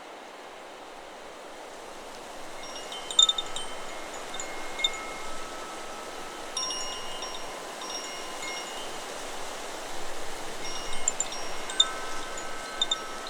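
Chakra Chimes 'Solar Plexus' wind chime stirred by the wind: a few ringing tones about three seconds in, more about halfway, and a busier run of strikes near the end. Steady wind noise runs underneath.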